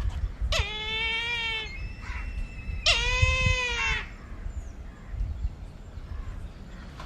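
Brahminy kite calling: two long, drawn-out calls a little over a second apart, each held near one pitch with a slight rise and fall. A low rumble runs underneath, strongest at the start.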